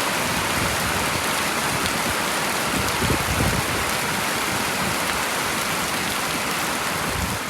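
Steady, heavy rain falling, an even wash of noise with a slightly louder low rumble about three seconds in.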